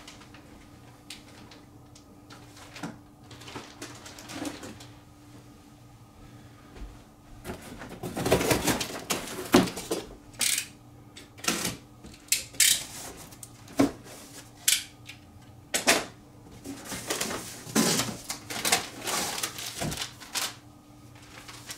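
Packaging being handled while parts are unpacked from a box: scattered clicks at first, then from about a third of the way in a busy run of crinkling rustles, taps and knocks, over a steady low hum.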